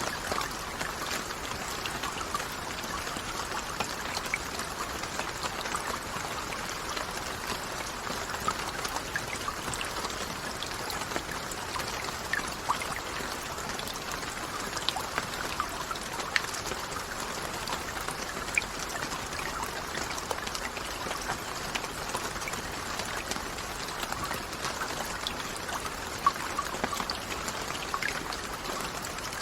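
Steady rainfall, a continuous hiss of rain with many small distinct drops pattering through it.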